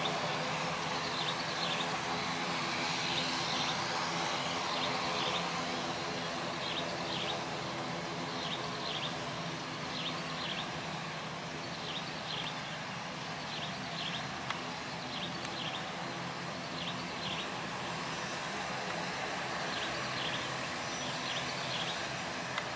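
Steady hum of airliner jet engines, without a rise or fall of a passing plane. Over it a bird chirps over and over in short, high, falling notes, often in pairs.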